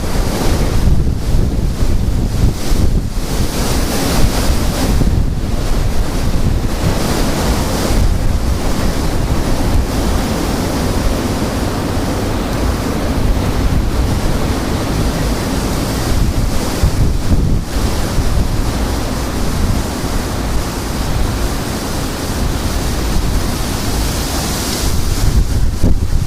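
Very strong gusting wind blowing hard across the microphone, a loud, heavy rumble of wind noise that swells and eases with the gusts.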